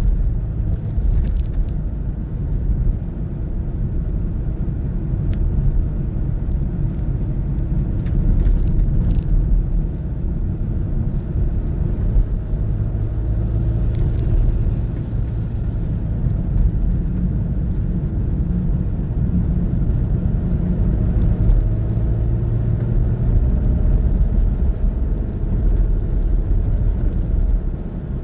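Car driving along a road: a steady low rumble of engine and road noise, with the engine note drifting up and down a little.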